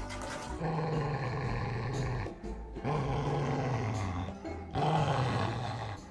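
A dog growling in three long, low stretches of about a second and a half each, pitch sagging slightly toward the end of each.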